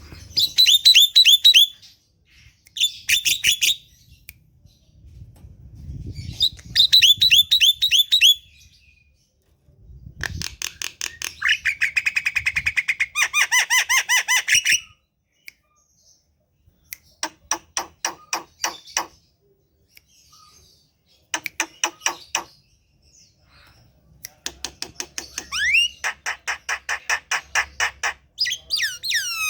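Javan myna singing: loud bursts of fast, rattling chatter, each phrase a quick train of repeated notes lasting one to four seconds, with short pauses between.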